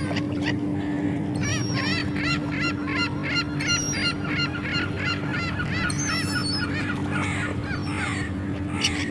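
Seagulls calling, a rapid run of short repeated calls, about three a second, through the middle, with more scattered calls near the end, over a steady low hum.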